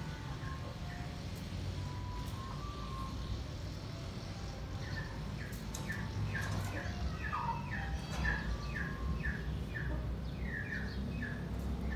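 Bird chirping: a run of short falling chirps, about two to three a second, begins about five seconds in, after a few faint high notes, over a low rumble.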